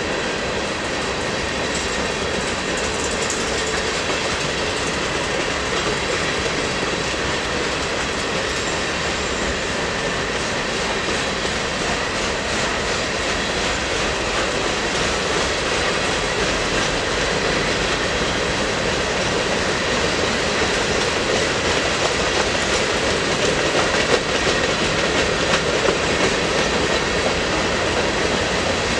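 A train's cars rolling past on the rails, a steady, unbroken rolling noise.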